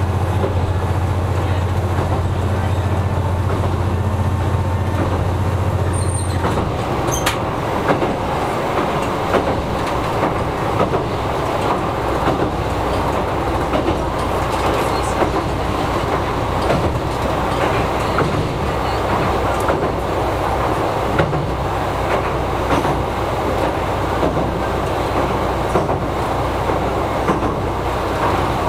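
Diesel railcar running along the track, heard from inside the cab. The engine's steady low drone cuts out about six seconds in, and the rumble and clicking of the wheels on the rails carry on across a steel railway bridge.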